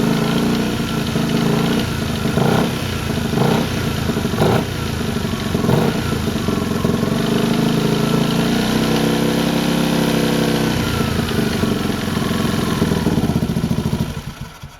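Yamaha Grand Majesty 250 scooter's single-cylinder engine running and revved several times, with the 'katakata' rattle the owner hears at 3000 to 4000 rpm and cannot place, head or crankcase. The engine is switched off near the end and dies away.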